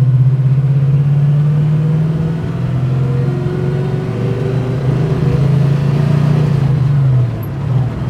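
Chevelle's 383 stroker V8 with Magnaflow exhaust running with a steady, pulsing low drone. It eases off briefly about two and a half seconds in and again near the end.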